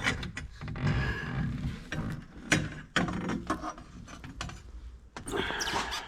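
Irregular clicks and light knocks of parts being handled, several sharp ones about a second apart, with rustling in between.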